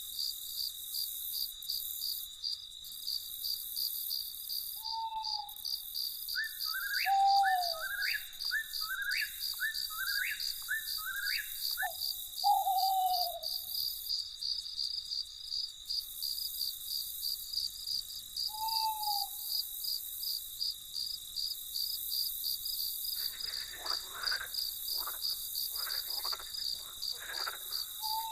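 Night chorus of crickets trilling steadily in fast high pulses. Over it come a few short falling hoots, a quick run of about seven repeated higher call notes, and, from about three quarters of the way in, a series of croaking calls.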